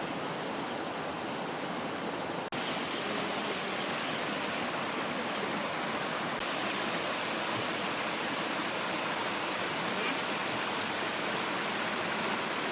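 Steady rushing of water from a small waterfall and stream. There is a brief dropout about two and a half seconds in, after which the water is a little louder.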